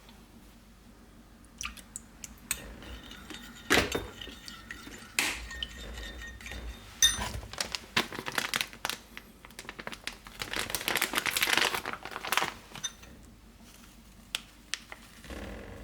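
Kitchen handling sounds of dishes and utensils: scattered clinks and knocks, with a denser, rougher stretch lasting about two seconds about ten seconds in.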